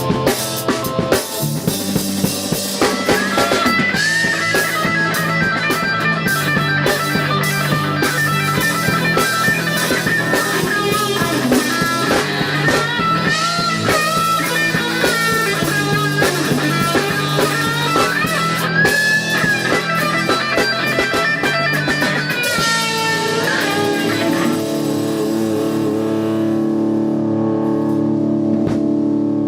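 Instrumental rock jam on drum kit, guitar and bass guitar, the guitar playing bending lead lines over steady drumming. About three-quarters of the way through, the drumming stops and a held chord rings out to the end.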